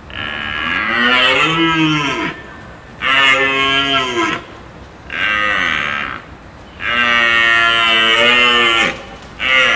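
Cow mooing: four long calls, each a second or two, rising then falling in pitch, with a fifth starting near the end.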